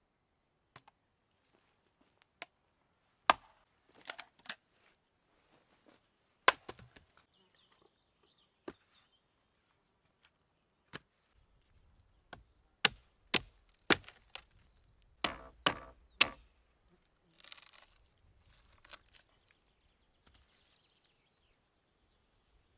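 A knife chopping on a cutting board in single, irregular strikes, with a quick run of chops a little past the middle.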